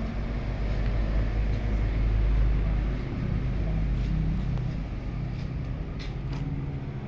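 A large engine running steadily with a low rumble, with a few sharp knocks about six seconds in.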